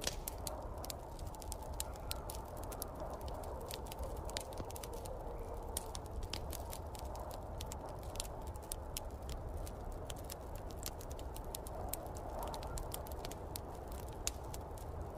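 Wood fire in a fireplace crackling with many quick, irregular pops, over a steady low rumble and soft whoosh of snowstorm wind.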